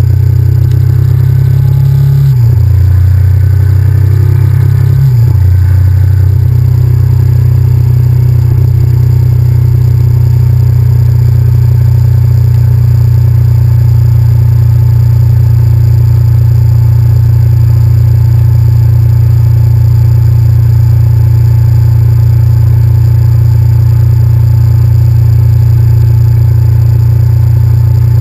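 Honda VTR1000F's V-twin engine running under way, loud and low. Its note drops sharply twice, about two and five seconds in, then holds steady.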